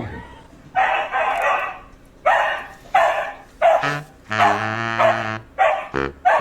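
A dog barking in a run of about seven barks, mostly short, with one drawn out for about a second midway.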